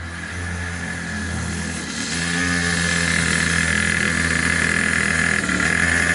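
Small 50cc two-stroke engine on a drift trike running under throttle, its buzz getting louder about two seconds in and then holding steady.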